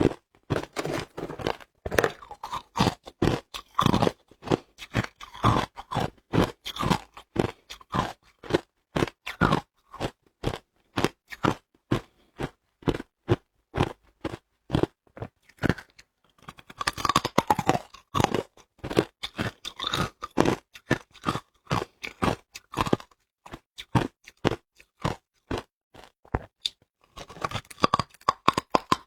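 Hard ice being bitten and chewed close up: a long run of sharp, crisp crunches, a few every second, thickening into denser chewing now and then.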